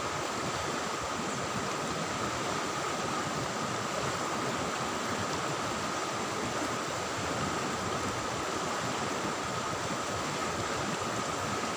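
Steady rushing of river water, an even noise with no breaks, with a faint steady high tone running through it.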